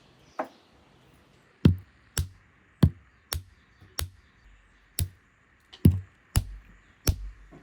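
A series of sharp knocks, each with a dull thump, coming roughly every half second to a second: repeated strikes.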